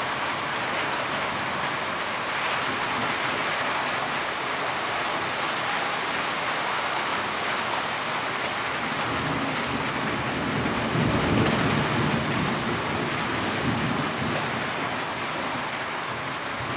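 Steady heavy rainfall. A low rumble of thunder swells up about two-thirds of the way in.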